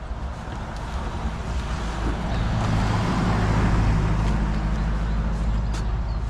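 A motor vehicle's engine running with a low hum, growing louder about two seconds in and easing off slightly near the end, as if passing close by.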